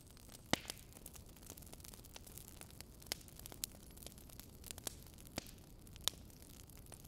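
Kitchen knife on a plastic cutting board, chopping dill and then slicing a tomato into rounds: a few scattered sharp taps of the blade on the board over a faint steady hiss, the loudest about half a second in.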